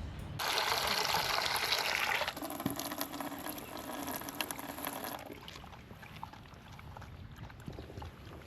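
Heavy rain, a loud steady rushing hiss that drops in level about two seconds in and fades to a fainter patter with scattered ticks about five seconds in.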